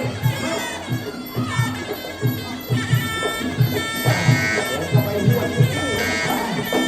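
Sarama, the live music played during a Muay Thai bout: the reedy pi Java oboe playing a wavering melody over a quick, steady drum beat.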